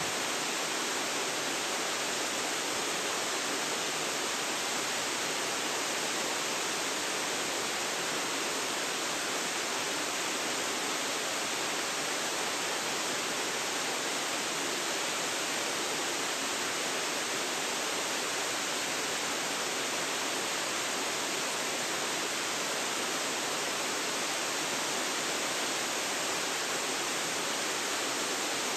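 Waterfall pouring steadily: an even rushing hiss, strongest in the middle and upper range with little low rumble, unchanging throughout.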